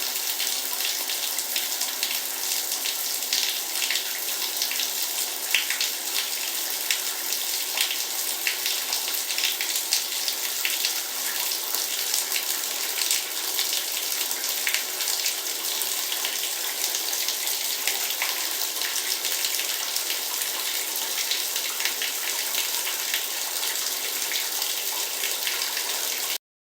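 Heavy rain falling steadily: a dense hiss of drops with many small individual splashes, cutting off suddenly near the end.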